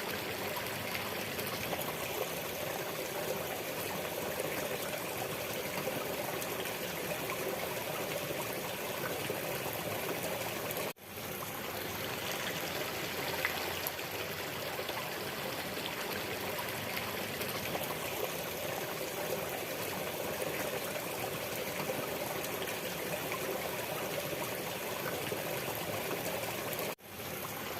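Waterfall water rushing and splashing in a steady, even wash. It cuts out for a split second twice, about a third of the way in and near the end.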